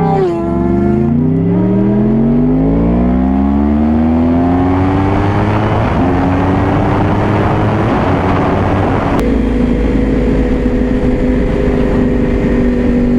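Yamaha YZF-R1 crossplane inline-four sport-bike engine: it drops in pitch at an upshift, then pulls hard with a rising pitch under building wind rush. About nine seconds in it abruptly settles to a steady, even pitch.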